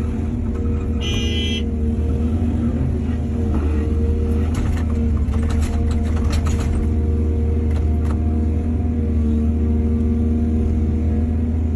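Diesel excavator engine running steadily, with a brief high squeal about a second in and a cluster of knocks and rattles between about four and seven seconds.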